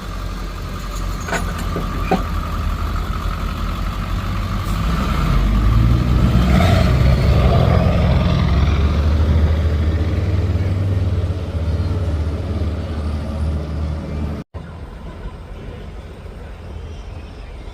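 Truck engine running with a deep rumble, swelling to its loudest about five seconds in and easing off after about eleven seconds.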